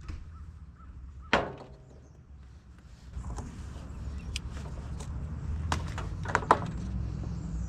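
A single sharp metal clang with a brief ring, then a low steady rumble broken by several sharp metallic knocks, the loudest about six and a half seconds in: metal parts being worked loose while removing an old trailer hitch bar from under a truck.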